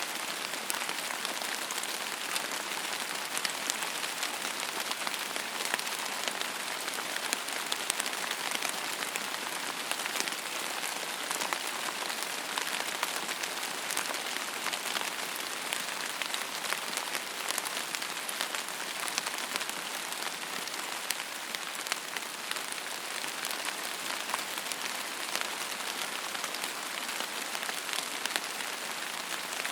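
Steady rain falling on a surface: an even hiss dotted with the ticks of individual drops.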